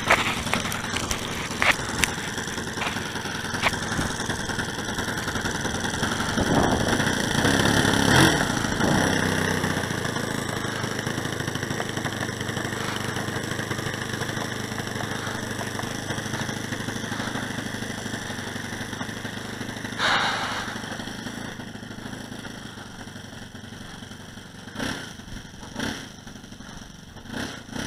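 Saito 180 four-stroke glow engine of a large RC model plane running in flight. Its sound swells to a peak about eight seconds in, and there is a brief loud rush about twenty seconds in, after which it is quieter.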